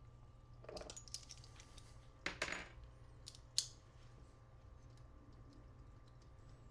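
Small metal tools and parts handled on a workbench: a short light rattle about a second in, a couple of sharper clicks around two and a half seconds, and a single sharp clink a little later, over a faint steady hum.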